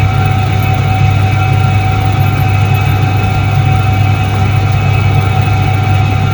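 1978 Soviet Iset-3 washing machine running: a steady deep motor hum with a fainter steady whine above it, unchanging throughout.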